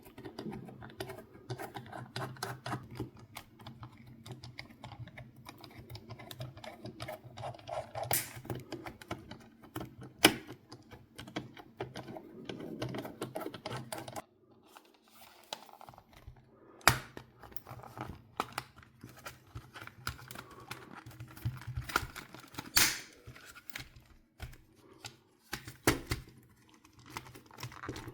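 Irregular small clicks, taps and rattles of hand work on a game console's plastic parts and screws, with a few louder sharp knocks.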